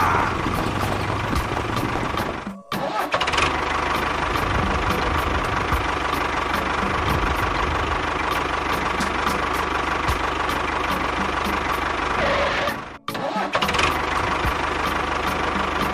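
A motor running steadily with a whine, cutting out briefly twice and picking up again each time.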